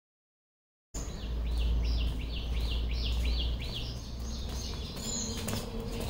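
A bird calling a rapid series of short, sharp falling notes, about four a second, starting about a second in, over a low rumble. A faint steady hum comes in later.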